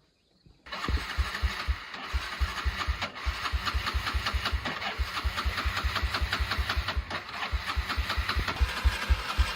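Small motorbike engine starting up about half a second in and idling with a low, slightly uneven beat.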